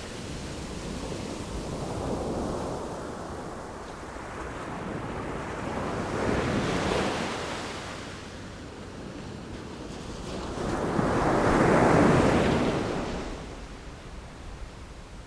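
Sea waves breaking and washing in, three swells that rise and fall over a few seconds each, the last and loudest about three-quarters of the way through, with wind on the microphone.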